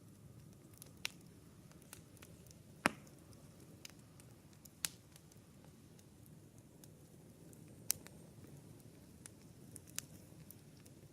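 Campfire crackling: sharp, irregular pops over a low steady hiss, the loudest pop about three seconds in.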